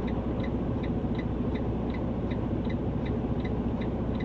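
Steady rumble of a semi-truck's diesel engine heard from the cab, with an indicator ticking evenly about three times a second.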